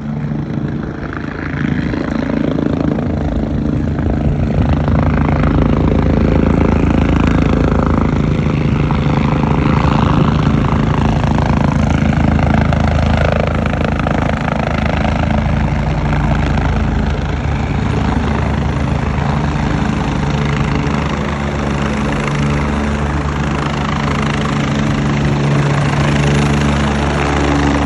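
Helicopter running steadily on the ground, a loud, even drone.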